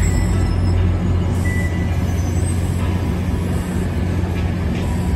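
MARC commuter train with an MP36 diesel locomotive moving past at close range: a loud, steady low drone with the noise of the coaches going by.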